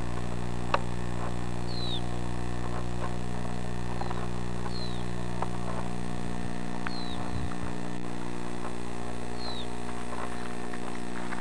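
Wild bird calling in the open marsh, repeating a short high falling chirp about every two seconds, over a steady low electrical hum in the recording.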